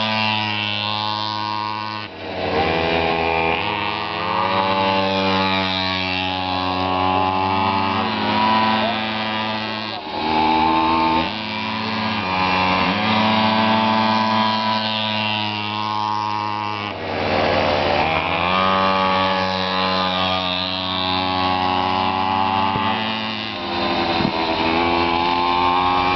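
Pocket bike's small two-stroke engine revving as it is ridden, the pitch climbing and falling with the throttle. It drops back sharply four times, about 2, 10, 17 and 23 seconds in, before climbing again.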